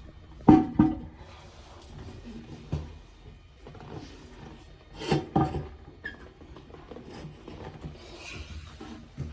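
Knocks and scraping as a low-level toilet cistern is worked into place on its wall brackets: two pairs of sharp knocks, about half a second in and again about five seconds in, with rubbing and scraping between.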